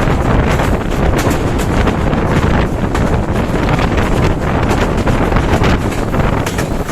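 Loud running noise of a fast passenger train heard from on board: a steady rush with a dense, rapid clatter of the wheels on the rails.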